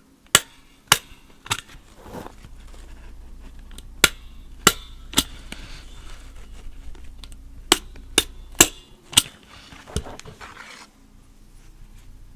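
Sharp taps in quick groups: three, then three, then four, each set a few seconds apart, with a faint rustling between them.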